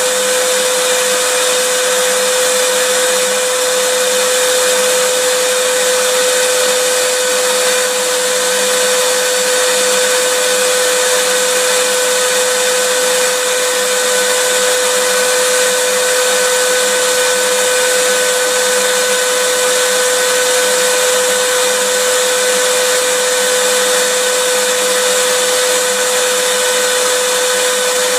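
Vacuum cleaner running continuously: a loud, unchanging rush of air with a steady motor whine.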